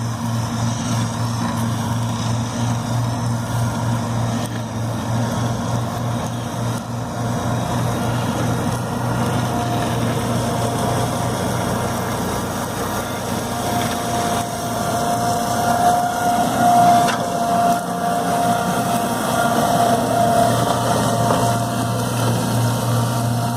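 Engine of the RX 620 running steadily with a constant hum. A higher whine joins about ten seconds in and swells briefly in the middle.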